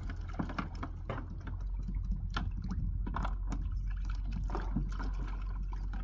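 Water sloshing and splashing with scattered sharp clicks and knocks, over a steady low rumble.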